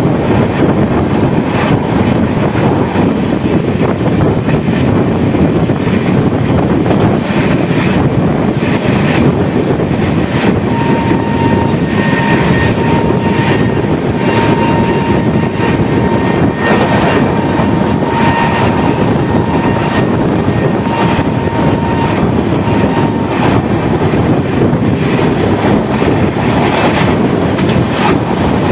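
Running sound of an express train of LHB coaches at about 90 km/h, heard from the coach side: a steady rumble of wheels on the track mixed with rushing wind, with irregular rail-joint clicks. A thin high tone comes and goes through the middle stretch.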